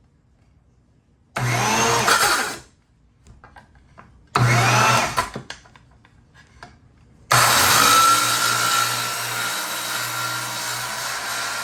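RIDGID circular saw switched on for two short bursts that each wind down, then started again about seven seconds in and run steadily, cutting through the wooden barn door.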